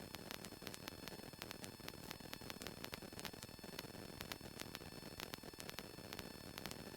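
Faint steady static hiss from an aircraft headset intercom audio feed, with frequent sharp crackling clicks and a thin steady high whine.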